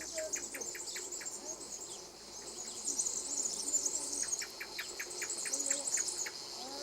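Dense chorus of insects, a steady high-pitched buzzing that swells in the middle. Twice a rapid run of short ticks, about seven a second, sounds through it.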